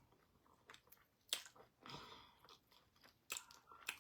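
Faint chewing of pounded yam with ogbono soup and bushmeat, with a few sharp mouth clicks and smacks.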